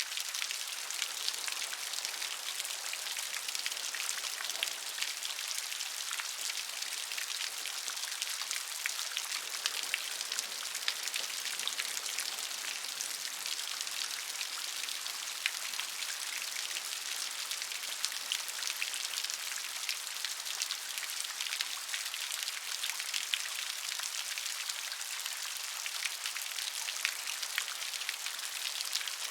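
Gentle rain falling steadily: an even hiss with many small, distinct drop patters.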